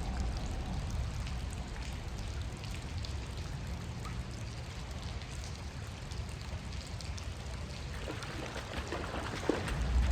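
Steady rain and running creek water, with scattered raindrop ticks. A low rumble sits on the microphone near the end.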